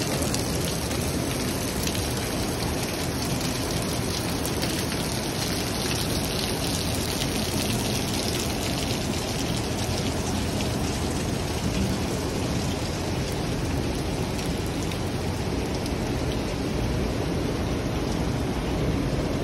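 Heavy rain falling in a steady downpour, with a dense patter of close drops.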